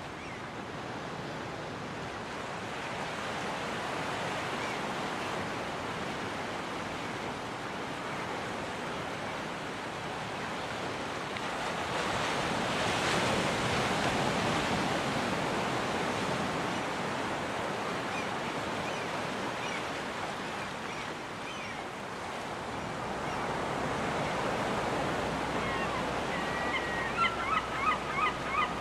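Ocean surf washing steadily onto a beach, swelling twice as waves break. Near the end a seagull starts calling, a quick run of short repeated cries.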